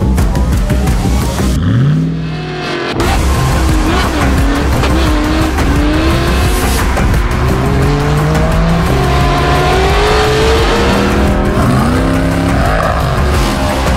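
Chevrolet Suburban's 6.0-litre V8 running through an MBRP performance exhaust under acceleration, its pitch climbing again and again, with a short drop about two seconds in. Music plays over it.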